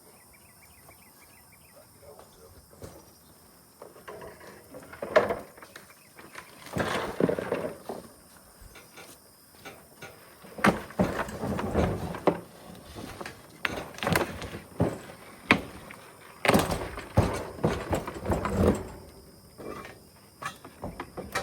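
Scrap metal being handled and unloaded: a series of sharp metal clanks and knocks, about a dozen, with rougher scraping and rattling between them, after a few quiet seconds.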